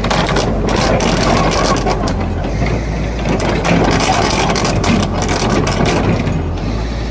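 Heavy diesel machinery engine running steadily, with repeated sharp metal clanks and knocks over it, typical of steel track-chain links and pins being worked while a track is refitted.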